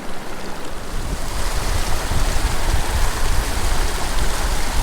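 Small mountain creek rushing through pocket water: a steady, even water noise that grows louder about half a second in, with a deep rumble underneath.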